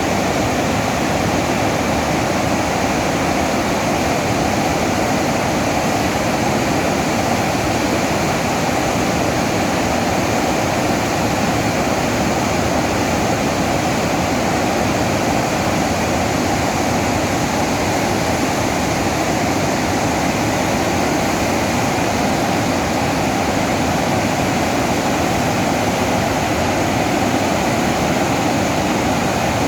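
Water pouring through a dam's spillway: a steady, unbroken rush of noise with no change in level.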